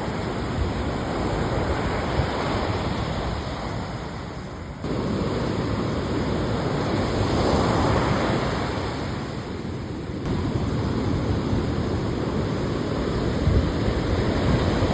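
Ocean surf breaking and rushing on a beach break, a continuous heavy rush of water with wind on the microphone. The sound changes abruptly about 5 seconds in and again about 10 seconds in.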